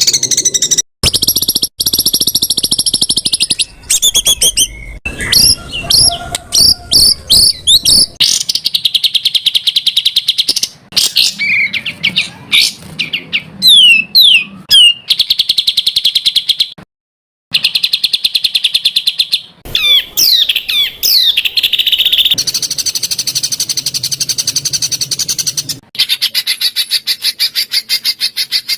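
Songbird song made of rapid-fire, closely spaced repeated notes and fast buzzy trills, the 'tembakan rapat' phrases of a masteran training recording. It comes in spliced sections that switch abruptly every few seconds, with sharp up-and-down whistles in between.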